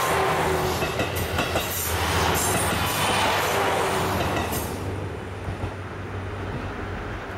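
Diesel train rolling past close by, its wheels clicking over the rail joints. The rumble dies away about two-thirds of the way through, leaving a low steady hum.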